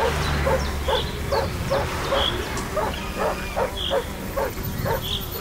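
Layered park soundscape: an animal calling in a steady rhythm, about two to three short calls a second, with bird chirps above and a low traffic rumble beneath.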